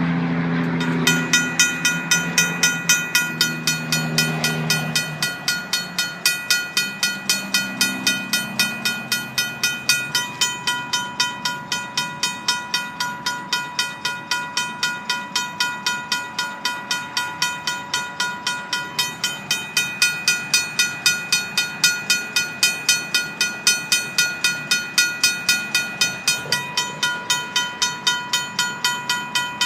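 RACO mechanical crossing bell ringing steadily at about two to three strikes a second on an active railroad crossing signal. A Union Pacific locomotive horn blows over it during the first few seconds.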